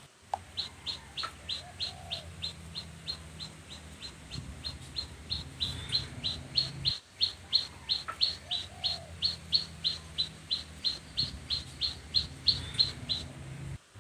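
A bird calling: one short, high chirp repeated steadily, about three times a second, over a faint low hum.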